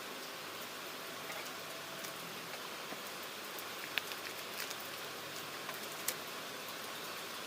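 A steady hiss of background noise with scattered faint clicks, two of them sharper, about four and six seconds in.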